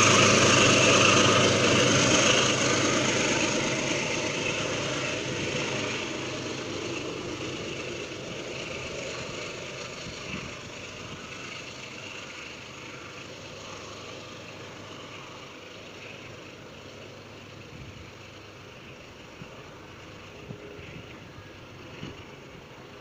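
Diesel passenger locomotive pulling its train away: the engine's steady drone and the train's rumble fade steadily into the distance.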